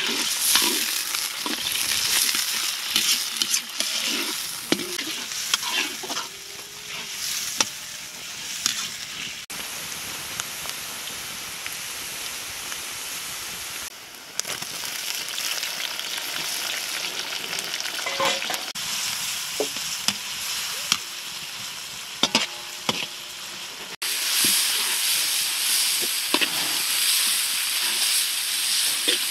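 Sliced onions, and later chopped tomatoes, sizzling in hot oil in a large metal wok. A metal ladle stirs them, scraping and clinking against the pan. The sizzle drops and rises abruptly a few times.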